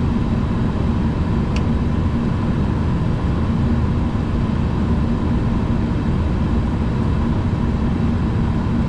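Steady flight-deck noise inside an Airbus A340-300: a constant rushing hum of engines and air systems, with a faint steady tone above it.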